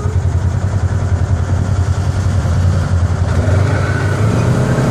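An engine idling close by with a steady low rumble, while a Jeep Rubicon's engine revs as it drives out of a mud hole, its pitch rising faintly about three and a half seconds in.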